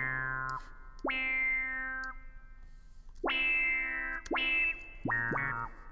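Software instrument in Soundtrap on a distorted, guitar-like "Funk classic" preset, played as about six separate notes with short gaps, each starting with a quick upward pitch slide. It is the wrong patch: not the soft, long-held pad chords that were wanted.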